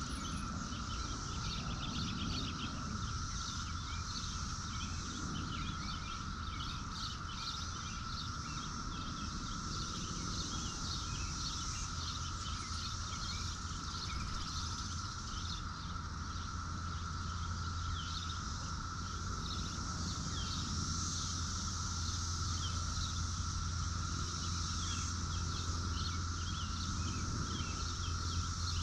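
Outdoor rural ambience: many quick bird or insect chirps over a steady high-pitched drone, with a low hum that grows louder in the second half.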